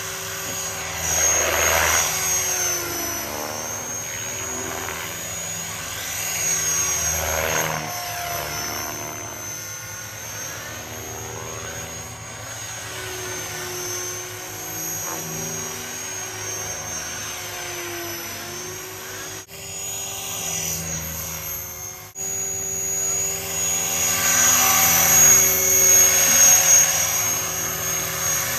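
Radio-controlled model helicopter in flight: a steady high-pitched whine over rotor noise, wavering in pitch and swelling louder as it passes close, about two seconds in, around seven seconds and again near the end.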